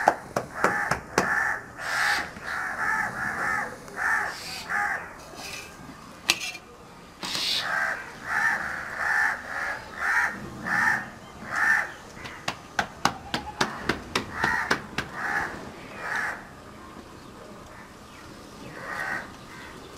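A bird calling over and over in short calls, about two or three a second. The calls pause for a couple of seconds about five seconds in, run on until about sixteen seconds, and one more call comes near the end. A few sharp clicks come in the middle.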